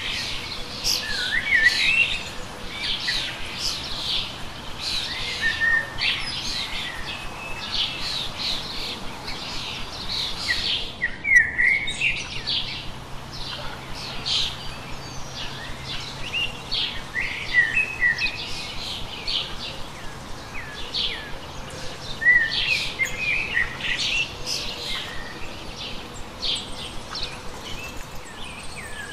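Birds chirping: a busy, continuous stream of short high calls.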